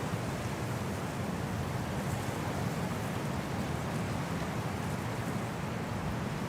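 Steady winter wind as a low, even rushing noise, with no gusts or separate sounds.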